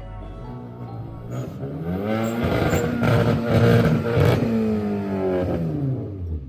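Car engine revving: it climbs in pitch, holds high for a couple of seconds, then winds back down.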